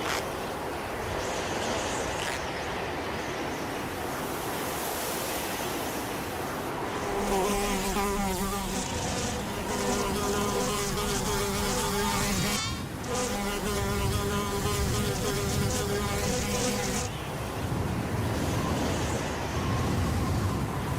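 Wind blowing, and from about seven seconds in a flying insect's wings buzzing at a steady pitch. The buzz breaks off briefly partway through and stops a few seconds before the end, leaving the wind.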